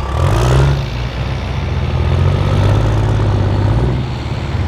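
Diesel pickup truck engine running hard with a steady low note. A short burst of hiss comes about half a second in, and the engine eases off shortly after four seconds.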